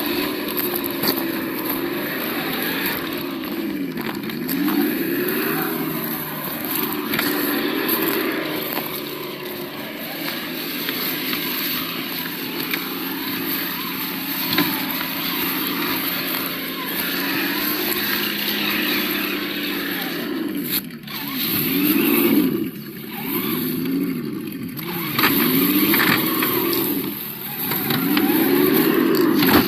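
Sound module of a 1:8 Absima Yucatan RC crawler playing a simulated engine note, the revs rising and falling again and again as the truck is driven. Near the end the rev swells come quicker and stronger.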